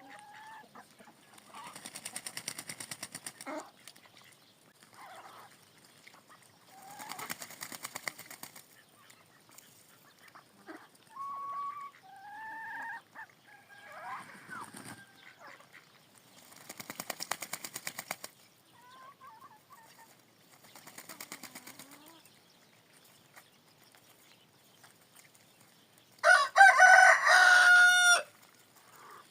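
Chickens calling in a series of short bursts and pitched clucks, then a rooster crowing loudly near the end.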